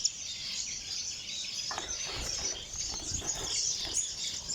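Many small aviary birds chirping together in a dense, continuous chatter, with a few soft low thumps and rustles around the middle.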